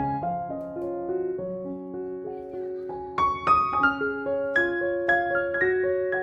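Background piano music: a soft, slow phrase that grows fuller and louder with quicker notes about three seconds in.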